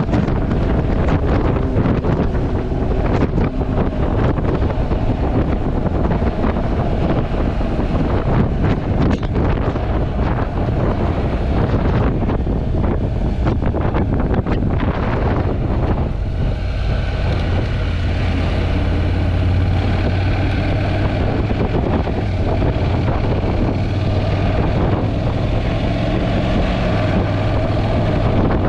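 Wind buffeting the GoPro's built-in microphone on a moving Honda NC750X motorcycle. A little over halfway through the wind eases and the bike's 745 cc parallel-twin engine comes through as a steady hum under it.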